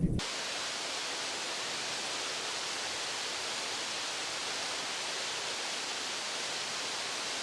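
A steady, even rushing noise that cuts in abruptly just after the start and holds unchanged throughout.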